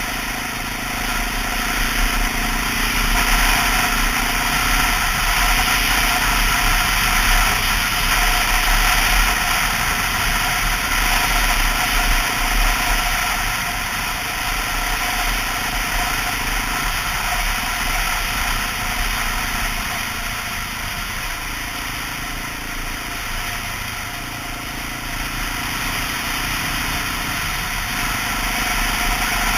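Honda XR650L single-cylinder four-stroke engine running while the motorcycle is ridden along, its note stepping up and down every few seconds as the speed changes, under a steady rushing hiss.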